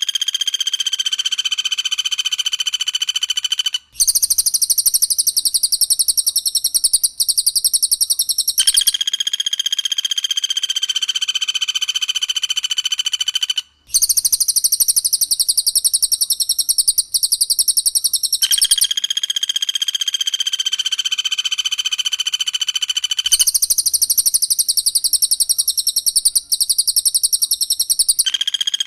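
Recorded bird-song training audio alternating two birds, a cililin and a pelatuk bawang (common flameback woodpecker). It switches roughly every five seconds between a long ringing whistle held on steady pitches and a rapid, high-pitched trill of quickly repeated notes.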